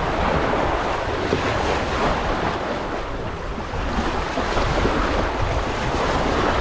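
Choppy waves washing and crashing against shoreline rocks, with strong wind buffeting the microphone.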